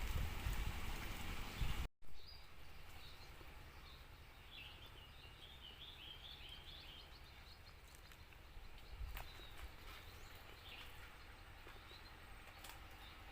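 Small wild bird chirping in a quick run of short high chirps, with one more chirp near the end, over quiet outdoor background noise. The first two seconds hold a low rumbling noise that cuts off abruptly, and there is a faint single click in the middle.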